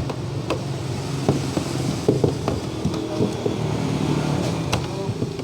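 A steady low mechanical hum, like an engine running nearby, with scattered short clicks and knocks throughout.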